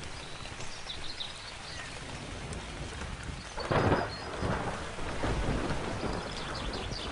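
Steady rain with a sharp thunderclap a little over halfway through, followed by rolling rumble. Birds chirp briefly near the start and again near the end.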